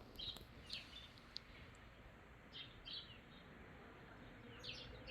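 Faint bird chirps: short, high calls scattered through, some in quick pairs, over a low steady background hiss.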